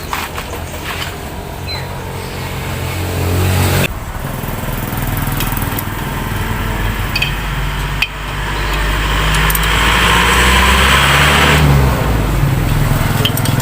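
A small engine running, swelling and dropping off suddenly twice, and loudest about ten seconds in with a hiss over it.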